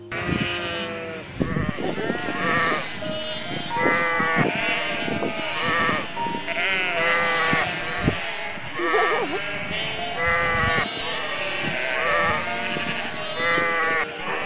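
A large flock of sheep bleating: many overlapping bleats at different pitches, one after another.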